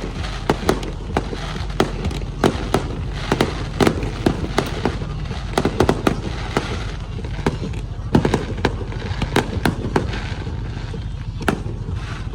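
Fireworks display: rapid, irregular bangs and crackles several times a second over a steady low rumble.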